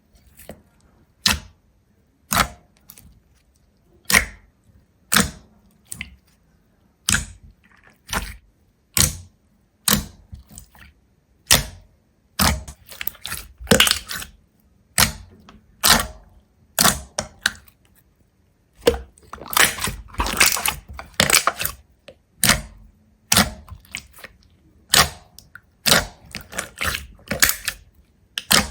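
Sharp cracks or crunches repeated about once a second, like something brittle being broken or crushed. Two longer runs of crackling come about halfway through and again a little later.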